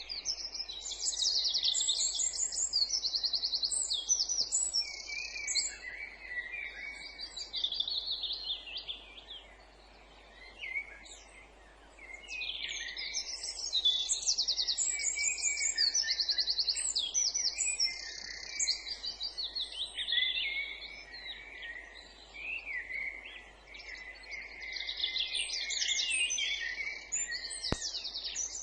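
Several songbirds singing at once in overlapping phrases of quick, high trills and warbles, with a short lull about ten seconds in.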